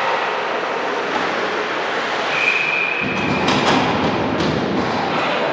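Basketball gym game noise: a steady din from the crowd and the court, with a short high squeak a little past two seconds in, then a run of sharp knocks.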